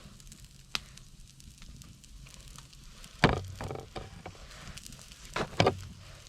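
Wood fire crackling softly, with a sharp pop under a second in. Two louder clattering knocks, about three seconds in and again near the end, stand out over the fire.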